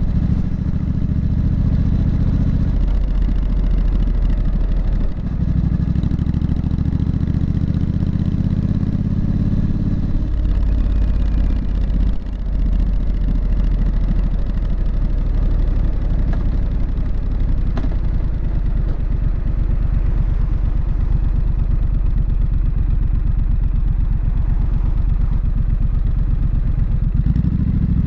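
Triumph Street Scrambler's 900 cc parallel-twin engine and exhaust while riding. The exhaust note rises and falls with the throttle, with short dips where it changes gear.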